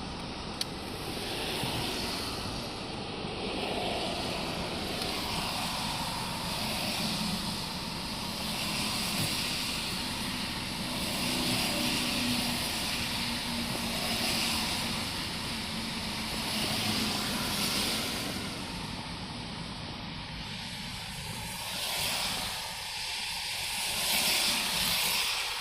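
Traffic on a rain-soaked road: tyres hissing through standing water as vehicles pass one after another, the hiss swelling and fading every few seconds.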